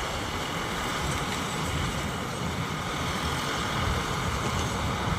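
Paddy harvesting machine, likely a combine harvester, running steadily with an even engine rumble and mechanical noise.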